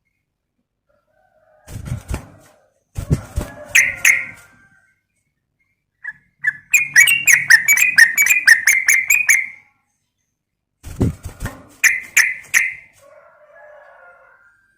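Yellow-vented bulbul (trucukan) singing phrases of rapid chattering notes, the longest in the middle. The recording is said to be a female calling to a male. Low thumps come with some of the phrases.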